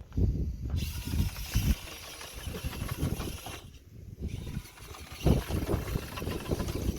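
Outdoor wind buffeting the microphone in irregular low gusts over a steady hiss, dropping out briefly twice.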